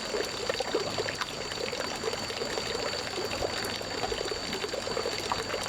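Water trickling steadily, with a faint steady high tone throughout.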